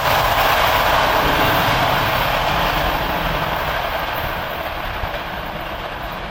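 Passenger train's coaches rolling away on the rails: a steady wheel-and-track rumble that slowly fades as the train recedes.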